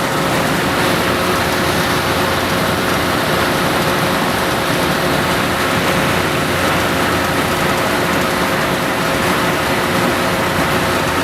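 Kelly drilling rig machinery running steadily: a loud, even mechanical noise with a few steady humming tones through it.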